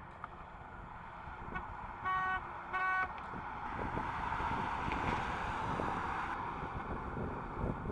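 Car horn tooting twice in quick succession, each toot short. A rising and then fading rush of vehicle noise follows.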